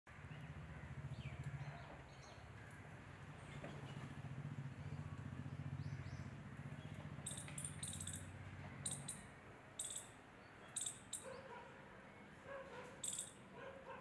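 Small birds giving several short, high chirps from about seven seconds in, over a faint low hum that fades out after about nine seconds.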